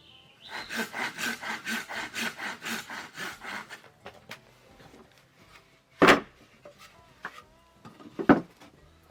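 Hand saw cutting wood in quick, even back-and-forth strokes, about four a second, which stop after a few seconds. Two sharp knocks follow, a couple of seconds apart.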